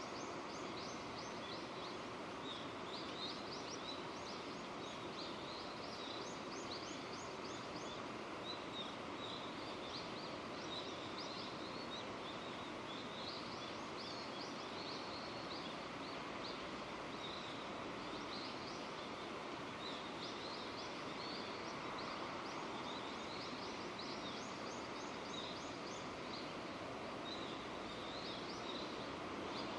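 Steady rain falling, with small birds chirping in repeated runs of quick high notes throughout.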